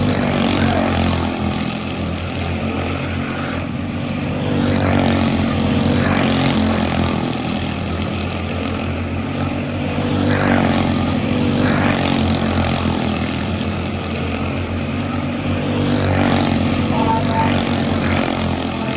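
Quarter midget race cars' small engines running on the track, a steady buzzing drone that swells and fades about every five to six seconds as the cars come around.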